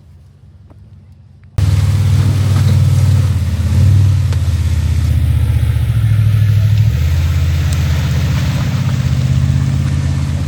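After a quiet second and a half, an off-road Jeep's engine cuts in suddenly and runs loudly under load, its pitch stepping up and down a few times.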